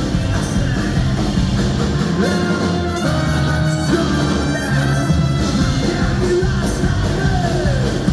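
A ska-punk band playing a song live and loud, with drums, bass, guitar and horn lines, and some singing. Several held notes slide downward near the end.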